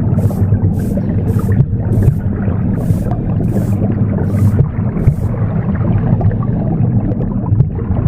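Broom sweeping: a run of short hissing strokes that stop about five seconds in, over a steady low whooshing womb sound.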